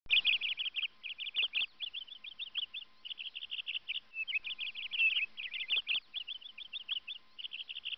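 A bird chirping in rapid bursts of short, high notes, several to a burst, with brief pauses between bursts and some more varied single chirps mixed in.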